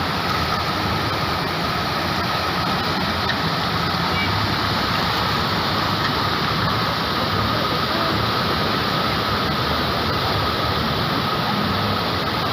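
Floodwater rushing in a steady, even roar, with a faint steady high tone running through it.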